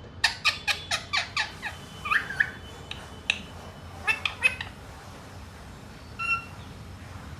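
Pet Indian green parrot calling: a quick run of about eight sharp, falling chirps in the first two seconds, a few squawks, another short cluster of chirps around four seconds in, and one drawn-out note near the end.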